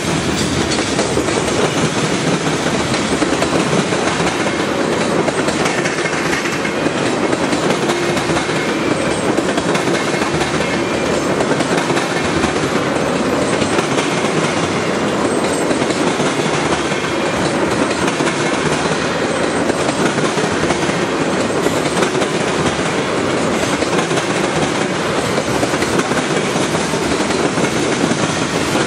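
Cars of a passing CN train rolling by on the track, a steady, loud wheel-on-rail noise.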